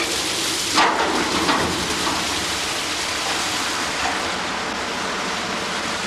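Water rushing into ice-block moulds at an ammonia-refrigerated ice plant, a steady loud hiss with a couple of knocks in the first two seconds.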